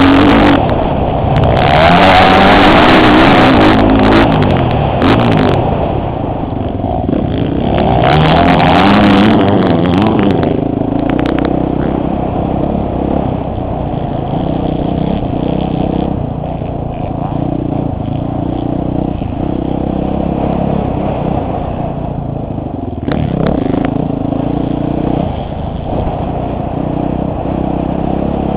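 Motocross bike engine heard from a helmet-mounted camera, revving hard through two loud acceleration runs about two and eight seconds in, its pitch gliding up and down through the gears, then running at lower, steadier revs for the rest.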